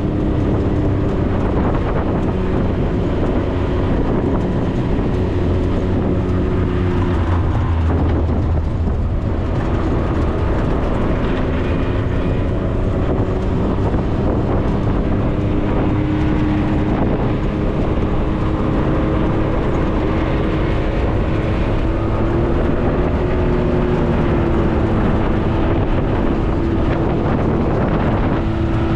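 Off-road vehicle driving up a dirt road: a steady engine drone with low rumble and road noise, the engine note dropping about eight seconds in and shifting again later.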